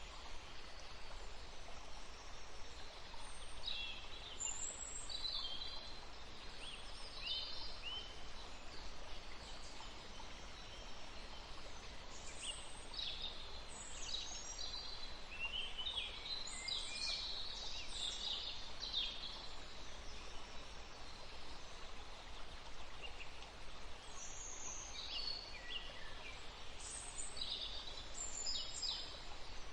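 Small songbirds chirping and twittering in quick high bursts, several at once at times, over a steady background hiss.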